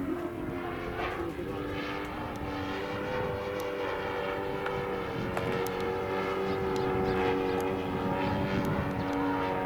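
Radio-controlled model airplane's motor running steadily with its propeller, its pitch shifting slightly up and down as it flies.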